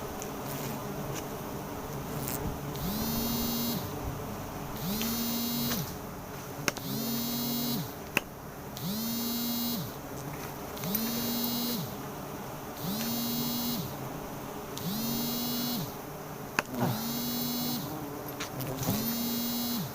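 Bees buzzing around a honey harvest, with a whirring sound that comes on for about a second every two seconds, rising in pitch as it starts and falling as it stops. A few sharp clicks fall between the repeats.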